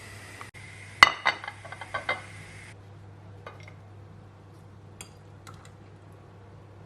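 Kitchenware clinking: a quick run of about six sharp knocks and clinks about a second in, followed later by a few faint taps.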